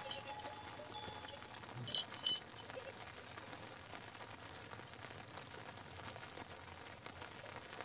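Steady rain pattering, a dense even spatter of drops, with two brief louder sounds about two seconds in.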